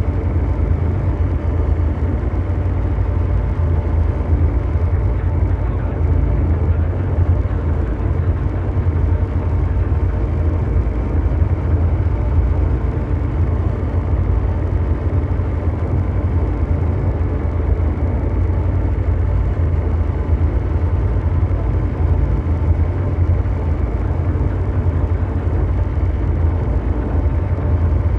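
Ambient mechanical drone noise: a steady, heavy low rumble with a hiss-like haze above it and a few faint steady tones, like a huge engine running without change.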